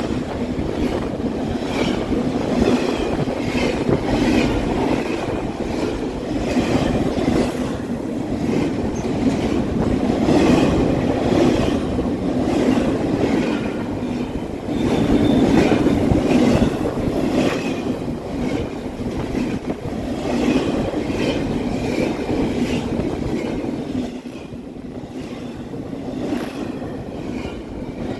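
Freight train of double-stack container cars rolling past at speed, wheels clicking steadily over rail joints, mixed with the rolling noise of bilevel commuter coaches passing slowly on the next track. The noise eases slightly near the end as the last commuter car, the cab car, goes by.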